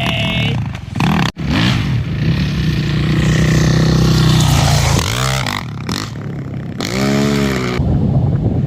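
Vehicle engine running hard at a steady speed, then revved up and back down twice, about five and seven seconds in. The sound cuts out for an instant just over a second in.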